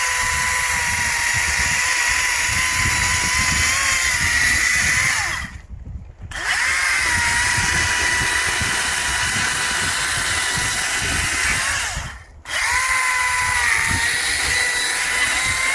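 Echo DCS-2500T 56-volt battery chainsaw running at full speed with a steady high electric whine, shaving wood off the surface of a trail obstacle. It runs in three long stretches, stopping briefly about five and a half and twelve seconds in.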